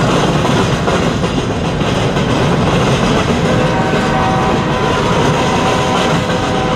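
Iron ore hopper cars of a freight train rolling past, a loud, steady rumble and rattle of wheels and cars on the rails. A faint steady whine joins about halfway through.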